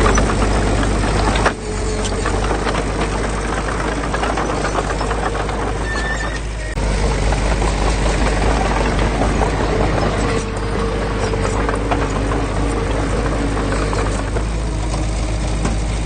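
Diesel engine of heavy earthmoving machinery running steadily, with continuous rattling and clanking over a low drone. The sound shifts abruptly about a second and a half in and again near seven seconds.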